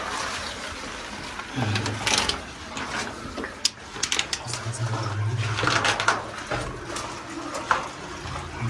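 Clothes and boots scraping and knocking on rock while squeezing through a tight cave passage, with a couple of low grunts about two seconds in and again around five seconds in.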